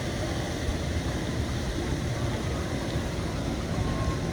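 Heavy rain pouring down: a steady hiss with a low, uneven rumble underneath.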